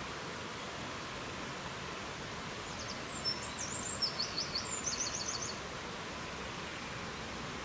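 A songbird sings one high phrase of chirps and quick repeated notes lasting about three seconds, over a steady rushing of wind.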